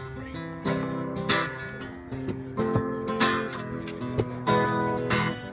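Acoustic guitar strumming chords in steady rhythm, an instrumental passage of a pop song.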